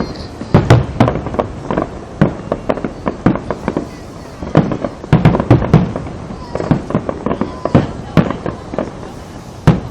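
Fireworks going off: an irregular run of sharp bangs and pops, some in quick clusters, with louder bursts about half a second to a second in, around five to six seconds in, and near eight seconds.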